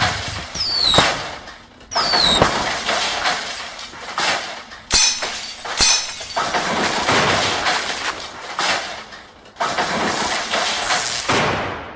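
Cartoon crashing and smashing sound effects with breaking glass: a loud, jumbled run of crashes and sharp impacts. Two short, falling high squeals come in the first few seconds.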